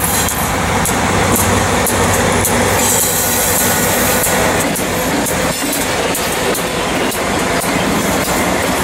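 Lead diesel locomotives of a freight train passing close by, a CP Rail EMD SD40-2 followed by a Norfolk Southern unit. Their engines run loud and steady, and the wheels click repeatedly over the rail joints.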